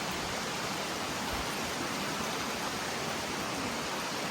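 Mountain stream water rushing over rocks: a steady, even rush.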